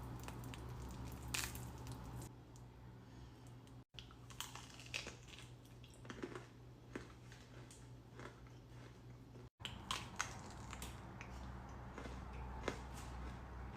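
Close mouth sounds of eating a chocolate bar: scattered quiet crunches and chewing clicks over a low room hum. The sound cuts out briefly twice.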